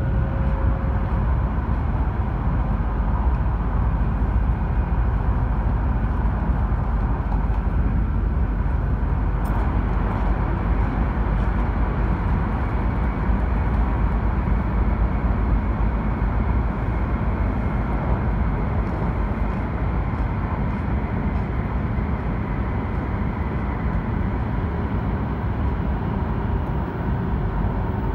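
Running noise inside an E2-series Shinkansen car travelling at speed: a steady rumble of wheels and air with a faint whine.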